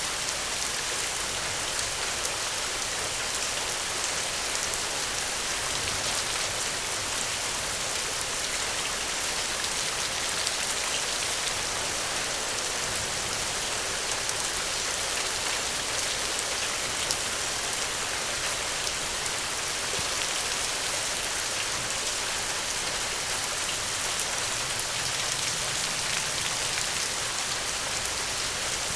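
Steady rain falling, a continuous even hiss with many fine drop ticks.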